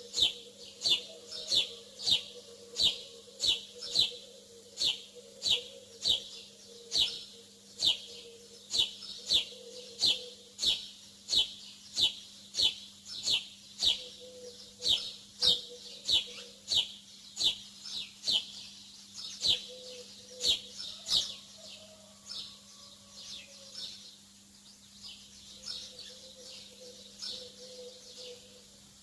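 A bird chirping over and over, short falling high notes about one and a half a second, loud for most of the stretch and growing fainter and more irregular in the last third.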